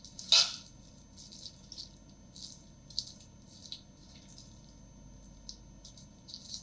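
Light kitchen handling sounds: scattered small clicks and wet drips, with one louder ringing clink about half a second in.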